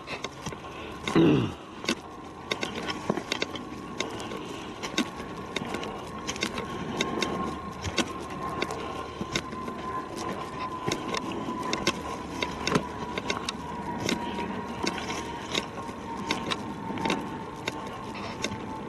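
An airplane passing overhead: a steady drone whose pitch slowly falls over the whole stretch. Over it come frequent footstep crunches on a forest trail, and a brief loud sound that glides downward about a second in.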